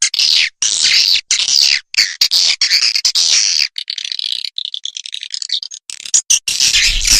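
Swiftlet call track: rapid, high, twittering chirps in quick stop-start runs, thinning out briefly just past the middle and coming back dense near the end. It is the lure call that swiftlet farmers play to draw swiftlets into a nest house.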